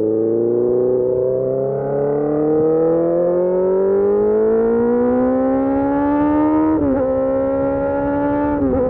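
Suzuki GSX-R600 K4 inline-four through an SC Project race exhaust, pulling hard under acceleration with its pitch climbing steadily for about seven seconds. It then makes a quick upshift, the note dropping and catching again, and shifts once more near the end.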